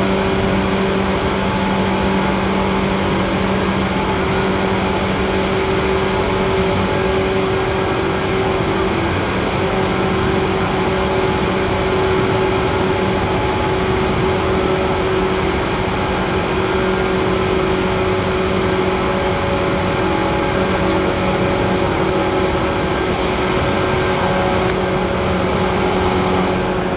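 JR 185 series electric train running at a steady speed, heard from inside the carriage: a continuous rolling rumble with a steady low hum.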